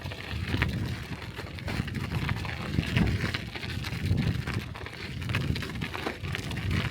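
Bicycle being ridden over a snowy street: a low, uneven rumble of tyres and wind on the microphone, with many small scattered clicks and rattles.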